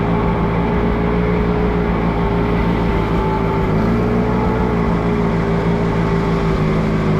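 Allis-Chalmers G tractor's small four-cylinder Continental engine running steadily under load as the tractor drives through snow at a low, even speed.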